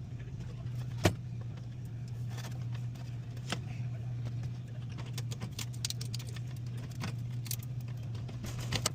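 Metal clicks and clinks of hand tools working on the unit's electrical components, over a steady low hum of running machinery. One sharp click comes about a second in, and a few more come near the end.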